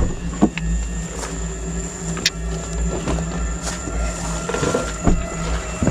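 A car engine idling with a steady low hum, with a few sharp clicks and rustles of handling over it.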